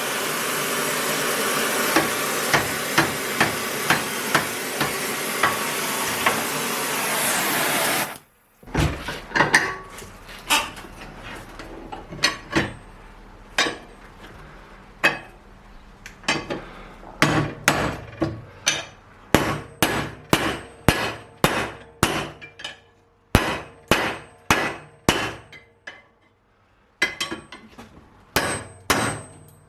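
A steady loud hiss with regular sharp ticks cuts off suddenly about eight seconds in. After it come repeated hammer blows, sharp strikes often in quick runs of several, some with a brief metallic ring.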